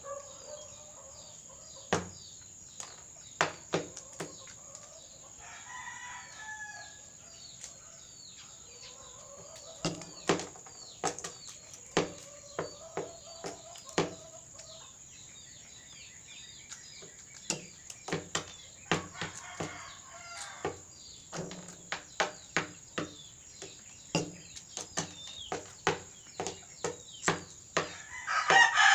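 Rooster pecking at nachos: a run of sharp, irregular taps and crunches, with soft clucking in between. Near the end a loud crow begins.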